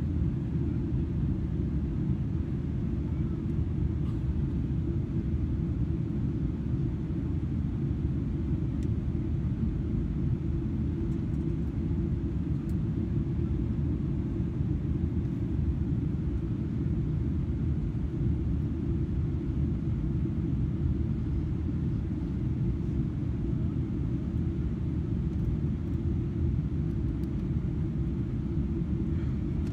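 In-flight cabin noise of a Boeing 777-300ER in descent: a steady low rumble of airflow and its GE90 engines, heard from an economy window seat.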